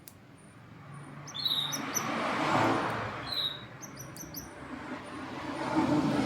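Canary giving a few short, high chirps. A louder rushing noise swells and fades, then builds again near the end.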